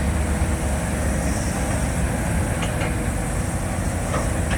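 Heavy diesel engine running steadily with a deep low rumble, with a few faint clicks from about the middle on.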